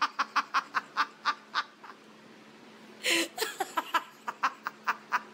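A woman laughing hard in rapid staccato bursts, in two bouts with a short pause between them, right after the punchline of her joke.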